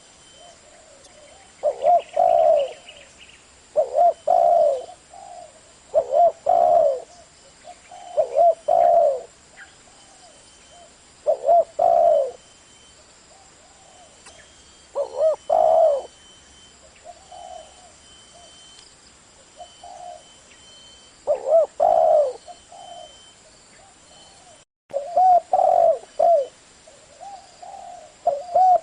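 Spotted dove cooing: loud, repeated coo phrases about every two seconds, with a few softer single coos in the gaps between.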